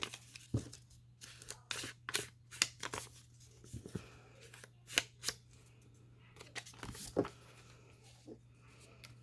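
Paper and craft supplies handled on a work table: irregular clicks, taps and paper rustles.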